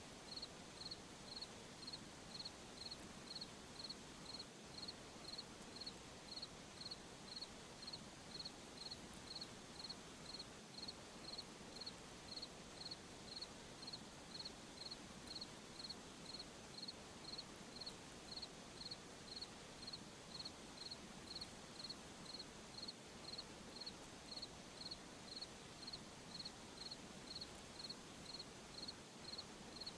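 A cricket chirping faintly and steadily, about three evenly spaced chirps every two seconds, over a soft even hiss.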